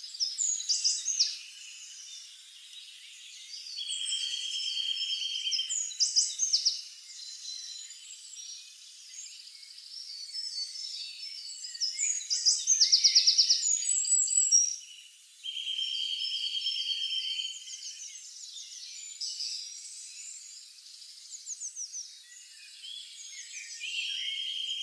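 A chorus of several songbirds chirping and singing in short overlapping phrases. A buzzy trill held for about two seconds comes three times, and a fast run of rapid notes comes about halfway through.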